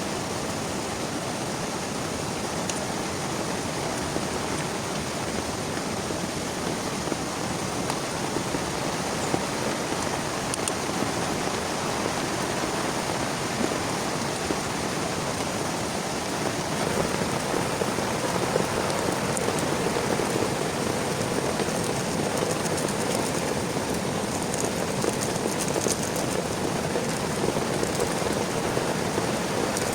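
Heavy rain falling steadily, growing a little louder a bit past halfway through.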